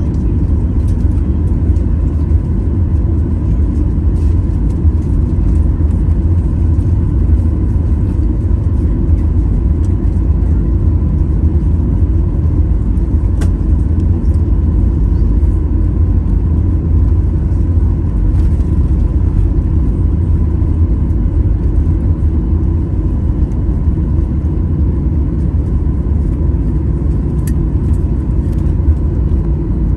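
Steady low rumble of a jet airliner's engines and airflow heard from inside the cabin, with a faint steady whine above it and no rise or fall in level.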